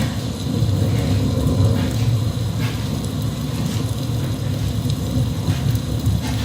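Steady rain with a continuous low rumble underneath.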